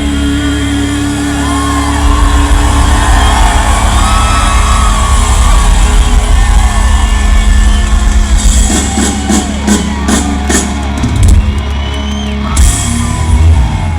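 Rock band playing loud live in a large hall over a sustained low chord, with a crowd shouting and whooping; a burst of drum and cymbal hits comes about two-thirds of the way through and again near the end.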